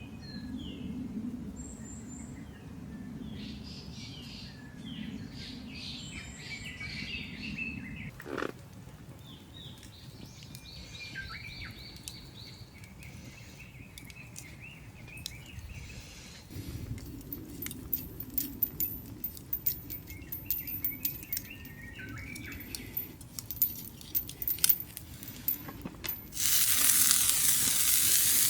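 Birds chirp and call in the background, and scattered sharp crackles and ticks come in over the second half. Near the end, food hits a hot pan over the campfire and starts sizzling loudly.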